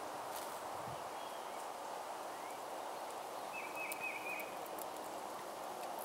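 Steady outdoor background noise with faint songbird chirps: a short run of four or five quick notes about four seconds in, and a few small clicks.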